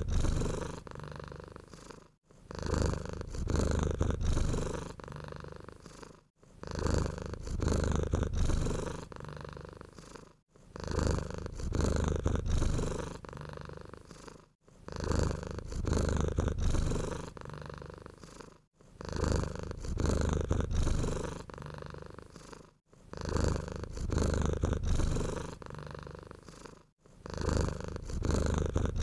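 Domestic cat purring with a low rumble. The purr comes in even cycles of about four seconds, each starting loud and fading, with a brief break between them; the same cycle repeats exactly, as a loop.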